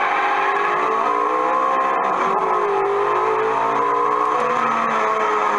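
Recorded rally car engine sound effect played through the speaker of a Northern Leisure MK2 Rally Car kiddie ride, revving up and down in pitch.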